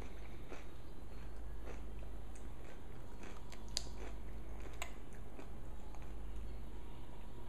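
A small child chewing and biting into a pickle: scattered wet, crunchy mouth clicks, two sharper ones near the middle, over a steady low hum.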